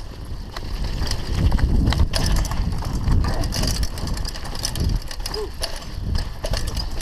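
Mountain bike rolling over a rough dirt trail: steady rumble of tyres and wind, with frequent sharp rattles and knocks from the bike.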